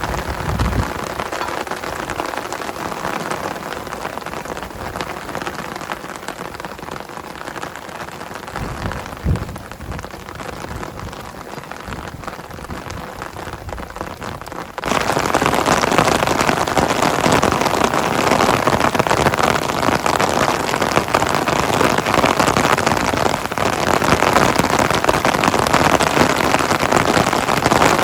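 Heavy rain falling steadily, with a dull thump about nine seconds in. About halfway through, the rain abruptly becomes louder and hissier.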